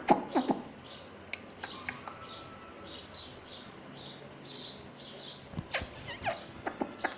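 Indian ringneck parakeet making a run of short, high chirps, about two a second, with a few sharp clicks and a falling squeak near the end.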